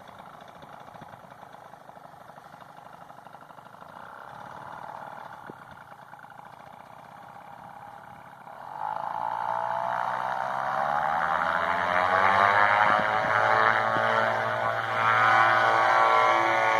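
Paramotor engine and propeller at low throttle with a rushing haze of wind, then about halfway through the throttle is opened: the engine note jumps in loudness and rises in pitch to steady high power, as the pilot powers back up after touching down.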